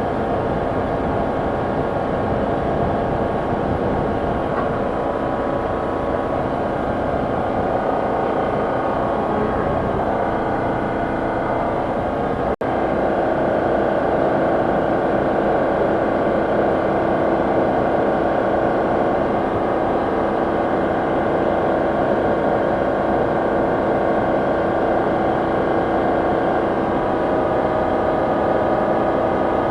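A car running steadily: a continuous mechanical hum with several fixed tones. There is a brief dropout about twelve and a half seconds in, and after it the hum is a little louder.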